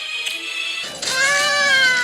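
Effects-processed cartoon soundtrack: a thin steady high tone, then about a second in a louder, long voice-like wail that slowly falls in pitch.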